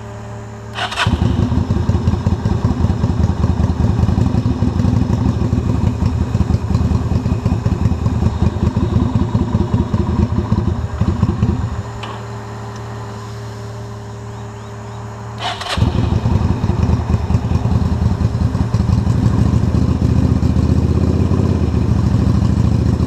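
Yamaha XV250 Virago's V-twin, on jumper leads from a car, is started about a second in and runs with a fast, even pulse for about ten seconds, then dies, leaving only the car's V6 idling; a few seconds later the bike is started again and keeps running. It will not stay running on its own flat battery, which the owner suspects is a fault in the alternator or a fried battery.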